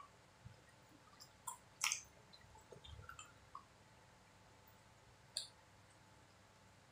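Close-miked mouth sounds of someone chewing soft, sticky martabak manis (thick sweet pancake): scattered wet smacks and clicks, the loudest about two seconds in and again past five seconds.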